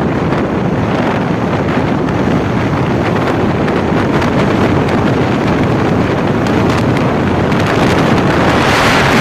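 Strong wind buffeting the microphone, a steady loud rumble and rush that grows brighter and a little louder near the end.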